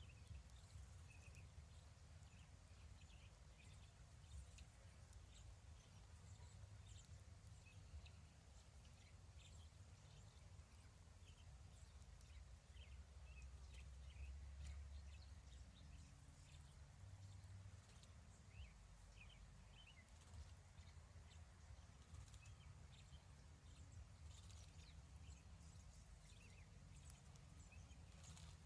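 Near silence: a faint low rumble of background noise, with scattered faint short chirps and ticks.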